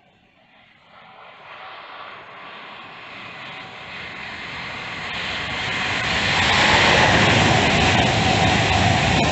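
A main-line train approaching at speed: a rushing noise that builds steadily from faint to loud, reaching its peak about seven seconds in and staying loud as it passes.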